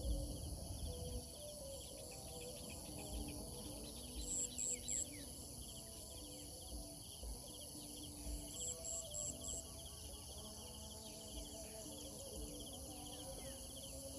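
Outdoor insect chorus: a steady high buzz with groups of three or four short high chirps every few seconds, among other small chirping calls.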